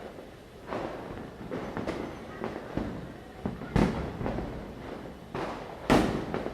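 Firecrackers bursting at irregular intervals, each bang followed by echo. Two sharp, loud bangs stand out, one near the middle and one near the end, among smaller pops.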